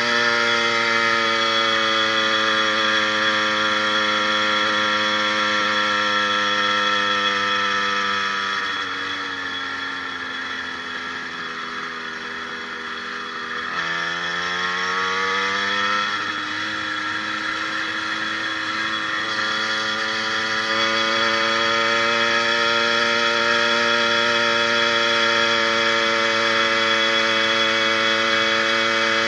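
80cc two-stroke motorized bicycle kit engine running, fitted with an upgraded wrist-pin needle bearing. Its pitch falls about nine seconds in, climbs again from about fourteen to sixteen seconds, and then holds steady at speed.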